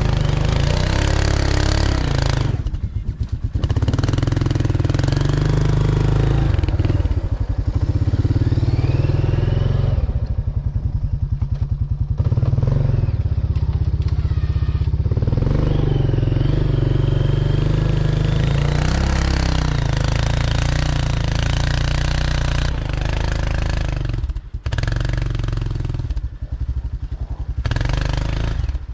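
A four-wheeler's (ATV's) engine runs under load, revving up and down, with a few brief dips in the revs.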